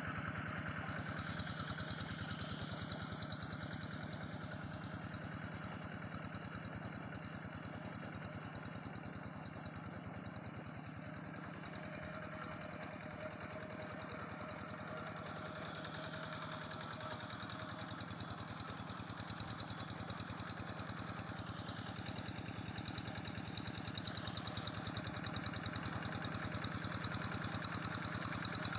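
Quick G3000 hand tractor's single-cylinder diesel engine running steadily with a fast, even chugging, a little louder near the end.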